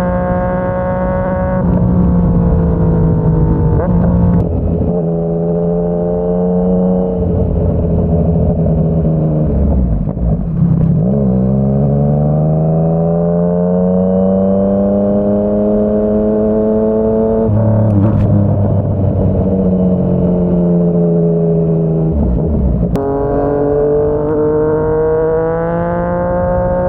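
Yamaha MT-09's three-cylinder engine through a Yoshimura R55 slip-on exhaust, heard from the rider's seat while riding. Its pitch holds steady and drops suddenly a few times at gear changes, sinks low near the middle as the bike slows, then climbs steadily as it accelerates again.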